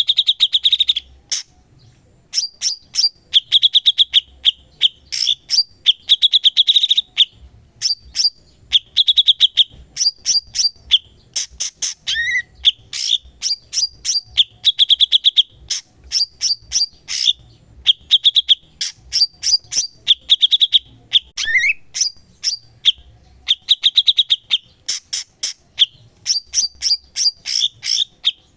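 Cucak cungkok singing non-stop, alternating rapid strings of sharp high chirps with buzzy trills about a second long, with a couple of lower slurred notes.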